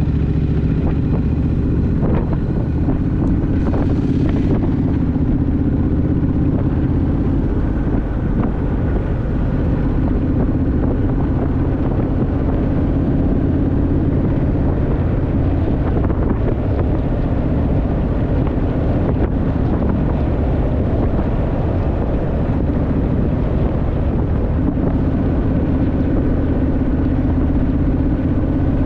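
Honda Rebel motorcycle's parallel-twin engine running steadily at riding speed, its pitch shifting slightly now and then, with wind buffeting the microphone.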